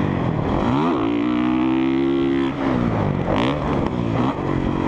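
Single-cylinder four-stroke engine of a Honda CRF450R motocross bike running at high revs. Twice the revs fall away and climb back as the throttle is chopped and reopened, about a second in and again past halfway.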